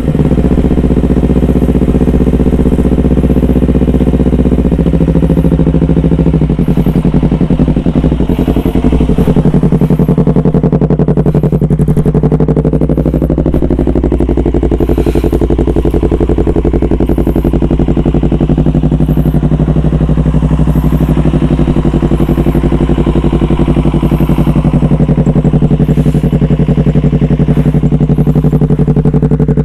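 Yamaha R25's 250 cc parallel-twin engine, breathing through an aftermarket DX Generation Racing Undertail dual-silencer exhaust, running under way at fairly steady revs. Its pitch drops once about five seconds in, then holds steady.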